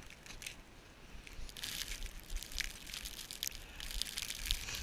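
Footsteps crunching through snow, faint at first and becoming louder and denser from about a second and a half in.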